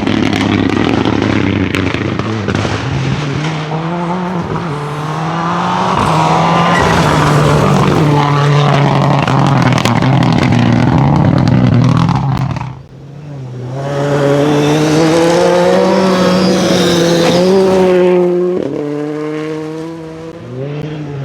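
Rally car flat out on a gravel stage, its engine revving hard and stepping through gear changes while loose stones spray and clatter. About two-thirds of the way through the sound drops away sharply for a moment, then the engine comes back loud and climbing. Near the end it falls off again in a couple of quick lifts.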